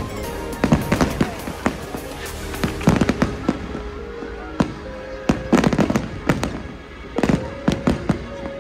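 Fireworks bursting: many sharp bangs and crackles, coming in bunches, with music playing underneath.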